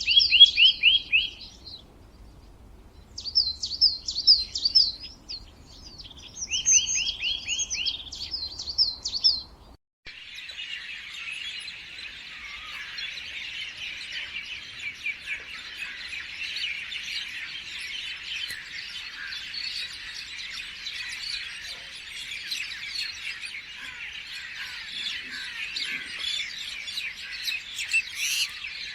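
Songbirds singing: a few loud, separate song phrases with quick trills over the first ten seconds, then an abrupt change to a dense, continuous chorus of many small birds chirping.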